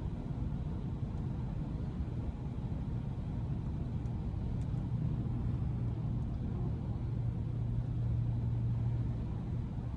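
2012 Audi S5's supercharged 3.0-litre V6 and road noise during steady driving: a low, even drone, its hum growing a little stronger about seven seconds in.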